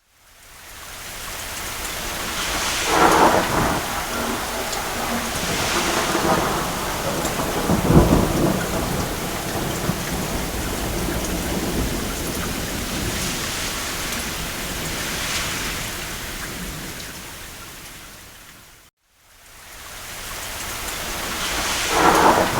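Steady rain on a roof with repeated rolls of thunder, the deepest rumble about eight seconds in. The sound fades down to a moment of silence a few seconds before the end, then fades back in with another thunderclap.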